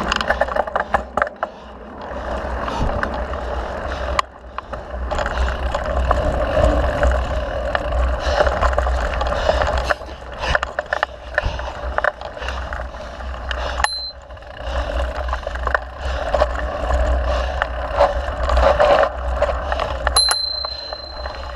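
Mountain bike ridden over a dirt trail: steady tyre noise with rattles and clicks over bumps, and wind rumble on the microphone. A bicycle bell rings briefly about 14 s in and again for over a second near the end.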